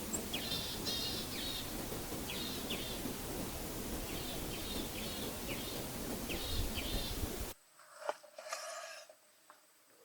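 Small birds chirping in quick repeated phrases over a steady rushing background noise, which cuts off abruptly about three-quarters of the way through. Then comes a sharp click and a brief buzzing sound.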